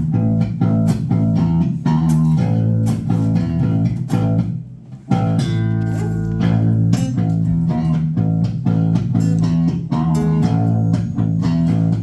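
Live band playing a song's instrumental intro on guitar and bass guitar, with strummed or picked strokes over sustained low bass notes. There is a brief pause about four to five seconds in before the band comes back in.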